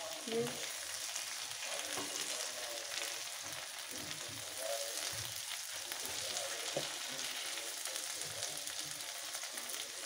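Chopped tomato and green chilli sizzling in hot oil with onions and chicken in a frying pan, stirred with a plastic spatula that scrapes through the food with occasional taps on the pan.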